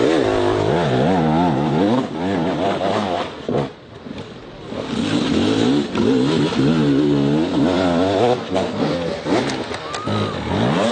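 Motocross motorcycle engines revving, the pitch swinging up and down over and over as the throttle is opened and closed, with a brief lull about four seconds in.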